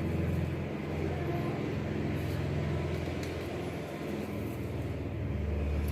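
A steady low hum, as of an engine or motor running, with a few faint light clicks over it.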